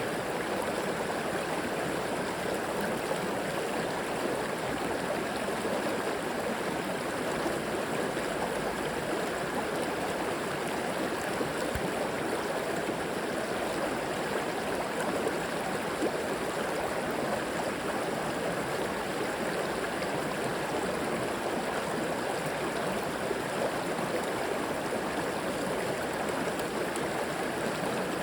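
River water flowing steadily over rocks, a continuous rushing and gurgling with no change in level.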